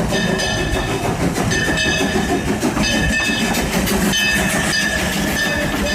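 Train sound effect: a locomotive running over the rails with a fast clickety-clack, sounding several high whistle blasts over it.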